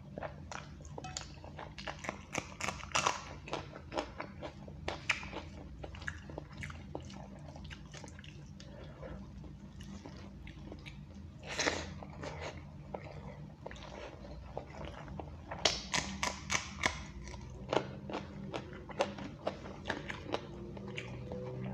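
Close-up eating sounds of a man chewing rice and egg curry eaten by hand: many short mouth clicks and chewing noises, with a louder burst about twelve seconds in. A low steady hum runs underneath.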